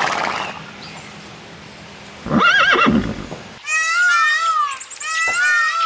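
A horse whinnying: a short burst at the start, then a wavering whinny about two and a half seconds in. Just past halfway the sound switches to a run of short, high, arching calls from another animal.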